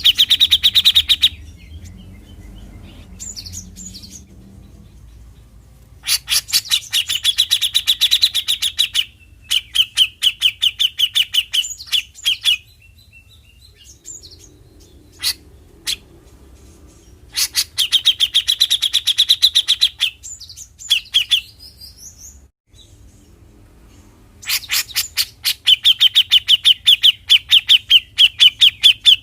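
Grey-cheeked bulbul (cucak jenggot) giving its rapid rattling 'besetan' call: fast runs of harsh notes, about ten a second, in bouts of a few seconds with pauses between.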